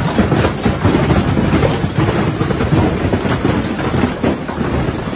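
Large hailstones falling hard and hitting surfaces: a loud, dense, continuous clatter of many small impacts with a low rumble underneath.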